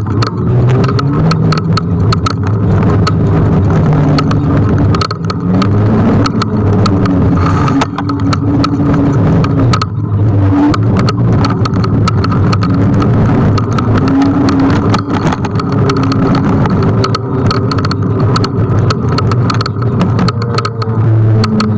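Continuous ride noise from an electric stand-up scooter on the road: a low hum that slowly rises and falls with speed, wind and road noise, and many short knocks and clicks from bumps and wind on the microphone, with traffic around.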